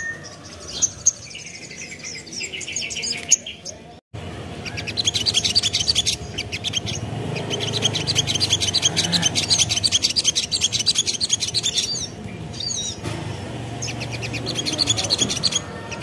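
Little spiderhunter (sogon) song: fast, high chattering runs of notes, broken by a brief gap about four seconds in and a short pause near twelve seconds.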